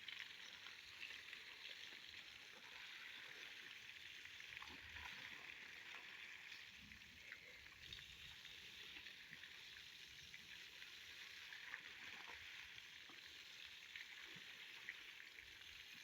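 Faint, steady hiss of water spraying from a pump-fed hose onto a mare being washed.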